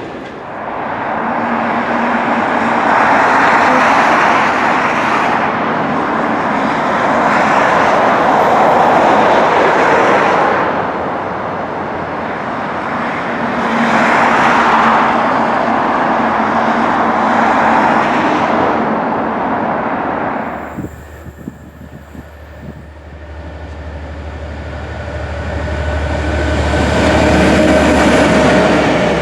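Train running past, its wheel-on-rail noise rising and falling in long swells. About two-thirds of the way through it drops away suddenly, and a low, steady engine hum builds up toward the end.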